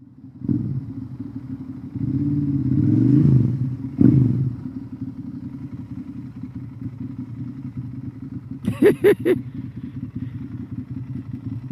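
Ducati Monster L-twin motorcycle engine with a Termignoni exhaust, running at idle, revved up and down over a couple of seconds, then blipped sharply once before settling back to a steady idle. Three short, sharp bursts come close together near the end.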